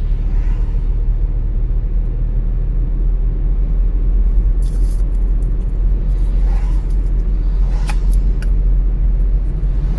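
Steady low road and engine rumble of a car being driven, as heard inside the cabin, with a couple of brief higher hissing noises about halfway through and again near the end.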